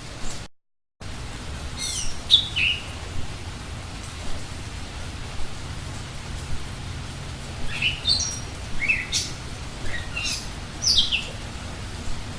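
Small forest birds calling: short, quick downward-sweeping chirps, a pair about two seconds in and a run of several from about eight to eleven seconds in, over a steady rain-like hiss. The sound cuts out briefly just after the start.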